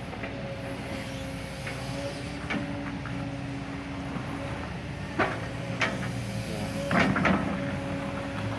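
Kobelco SK200 Super X excavator working: its engine runs steadily under a held whining tone, with sharp knocks about five and six seconds in and a quick cluster of clanks around seven seconds.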